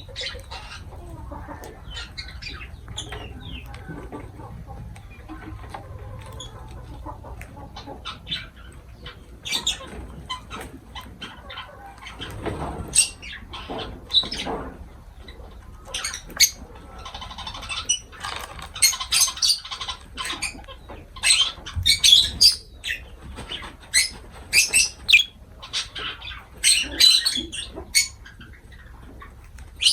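Lovebirds giving short, sharp, high-pitched chirps and shrieks, scattered at first and then coming in quick, loud volleys from about halfway through.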